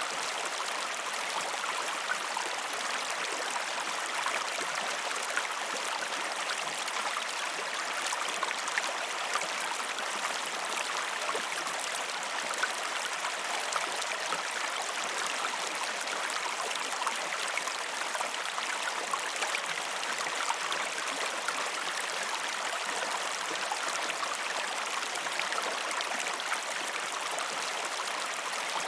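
River water running steadily over rocks, a continuous rushing with many small splashes and gurgles.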